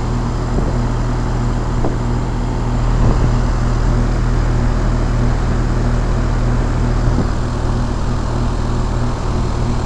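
Outdoor unit of a 5-ton 2001 Trane XE1000 Weathertron heat pump running steadily in heat mode: the Climatuff compressor humming under the rush of the condenser fan.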